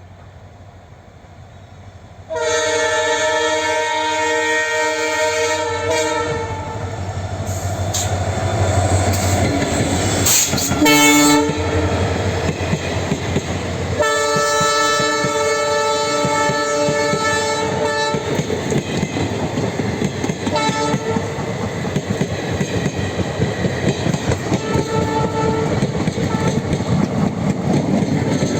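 Indian Railways locomotive horn sounding a long multi-tone blast a couple of seconds in, a few short blasts, then another long blast. Then the train runs past with wheels clattering over the rail joints.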